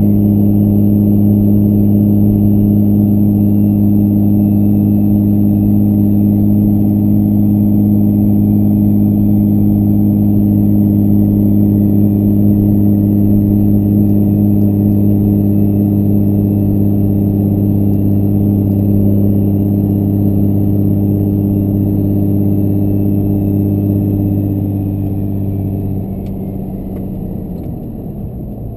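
5.9 Cummins compound-turbo diesel droning steadily at road speed, heard from inside the truck's cab. Near the end the engine note drops away and gets quieter as the throttle comes off.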